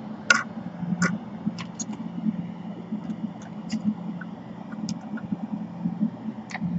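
Bench fume-exhaust fan running with a steady low hum, with scattered small clicks and taps of work on the laptop.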